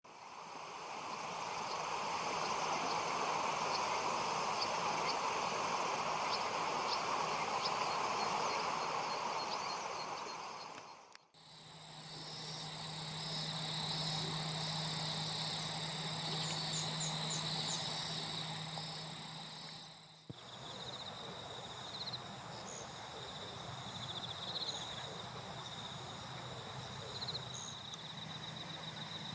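Chorus of insects such as crickets or katydids, singing continuously in steady high-pitched trills. The sound breaks off twice, briefly, where sections join, and a low steady hum sits under the middle part.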